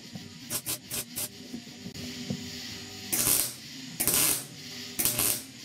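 Welder tacking a sheet-metal roof patch panel in place. A few very short crackles come about a second in. They are followed by half-second bursts of crackling arc, roughly one a second, in the second half.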